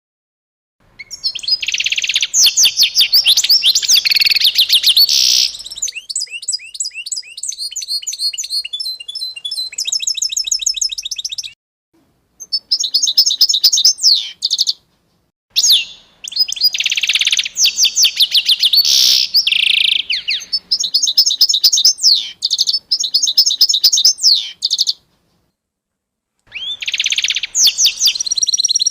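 A songbird singing long bouts of rapid, high-pitched trills and chirps, in three or four runs broken by short silences.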